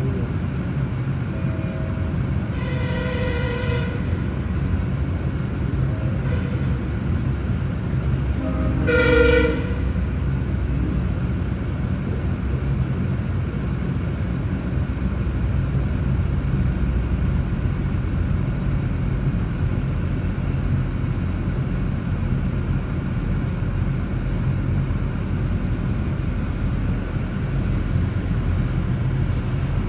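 Sounder commuter train at a road crossing: two horn blasts, one about three seconds in and a shorter, louder one about nine seconds in, then the steady low rumble of the train passing.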